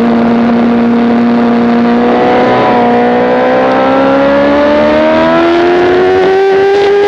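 Motorcycle engine at speed on a race track, heard on board: a steady engine note, a brief break about two and a half seconds in, then the pitch rising steadily as the bike accelerates, levelling off near the end.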